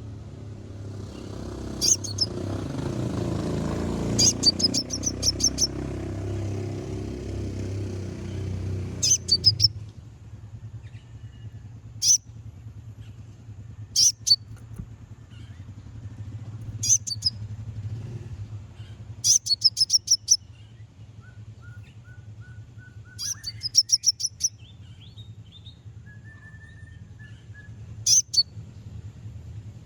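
A konin (kolibri ninja, a sunbird) giving sharp, high chipping calls, sometimes single and sometimes in quick runs of five or six, every couple of seconds; these are challenge calls meant to provoke rival birds. For the first ten seconds a low rumble, like a passing vehicle, runs underneath and then fades away.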